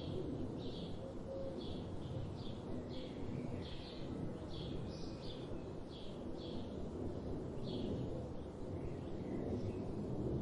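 A songbird repeating short, high chirping notes about twice a second over a steady low background rumble, the notes thinning out near the end.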